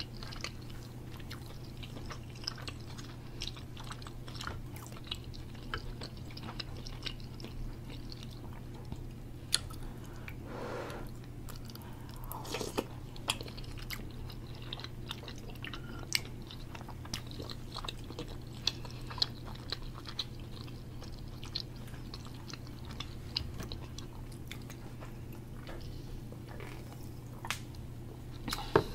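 Close-up chewing of food, with many small wet clicks and smacks from the mouth, over a steady low hum.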